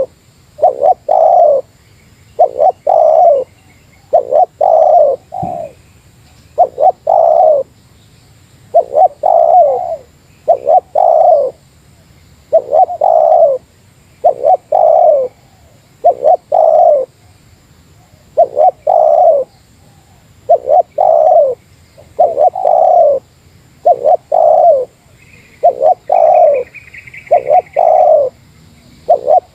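Spotted dove (tekukur) cooing over and over in the 'meratus' style, a challenge call aimed at a rival dove: low coos in groups of two or three notes, repeating about every two seconds. A fainter, higher chirping of a small bird comes in near the end.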